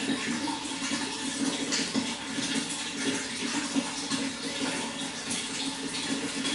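Flowing water: a steady, unbroken rushing noise.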